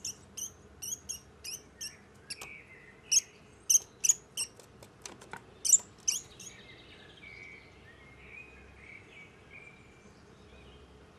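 Small songbirds calling with a rapid series of short, high chirps over the first six seconds or so, a few sharp clicks mixed in around the middle. Softer, lower calls trail off after that.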